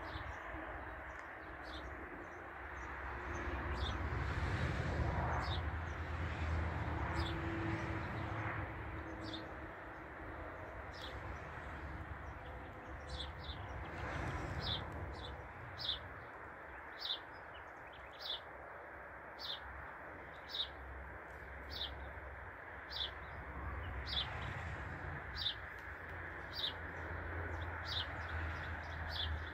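A songbird repeating a short, high chirp, about once a second through the second half, over a steady low outdoor rumble.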